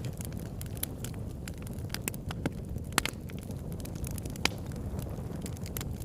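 Campfire burning with a steady low rumble and constant crackling, with two louder pops about three and four and a half seconds in.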